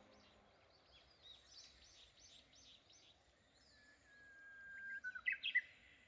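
Faint bird song: many short chirps repeated over and over, then, about four seconds in, one bird holds a long steady whistle and ends it with a quick run of louder notes.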